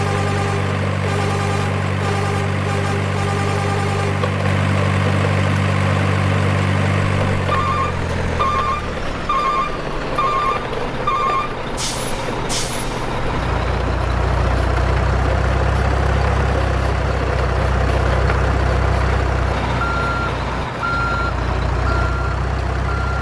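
Heavy truck engine running with a repeating reversing beep. Partway through, the engine note drops away and two short air-brake hisses follow. A lower engine hum then runs on, and the reversing beeps start again near the end.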